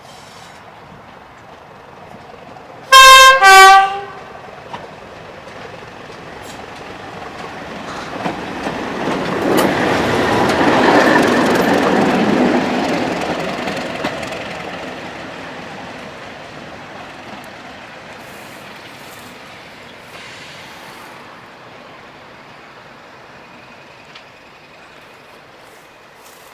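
Class 31 diesel locomotive sounding its horn twice, a short higher note then a lower one, about three seconds in. Then the noise of the locomotive and train swells, loudest about ten to twelve seconds in, and slowly fades away.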